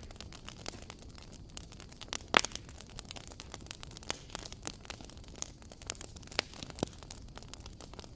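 Wood fire crackling in a fireplace: a steady run of small snaps and pops over a low hiss, with a louder pop about two and a half seconds in and another near the end.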